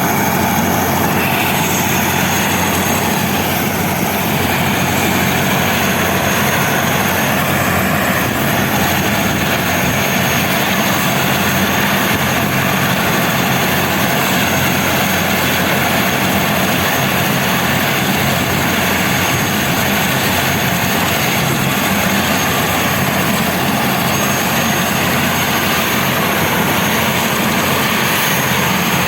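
Airbus H125 (AS350 B3) single-turbine helicopter running close by, a loud, unchanging noise of engine and rotor with a steady high turbine whine over it.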